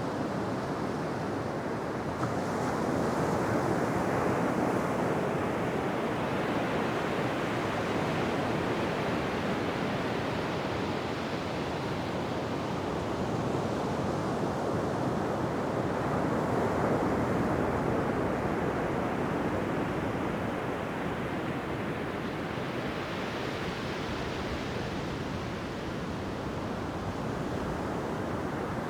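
Ocean surf washing onto a beach: a continuous rush of breaking waves that swells and eases slowly over several seconds, with no sharp crashes.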